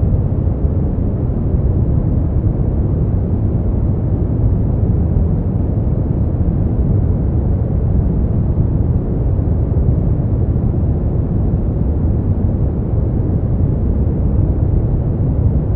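Steady synthetic sleep-aid noise, unchanging and deep-toned, with most of its energy low and no high hiss.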